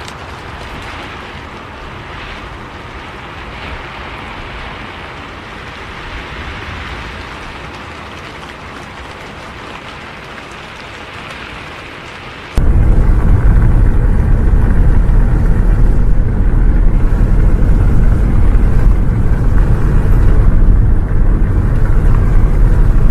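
Steady rain hiss, then about halfway through an abrupt cut to a much louder, steady low rumble of a bus running on the road, with fainter hiss above it.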